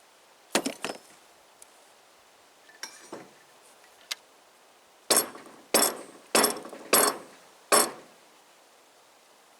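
Freshly threaded metal pump fitting being rapped upside down against a hard surface to knock out the metal cuttings left by thread cutting: a few handling knocks near the start, then five sharp knocks in a steady rhythm about two-thirds of a second apart.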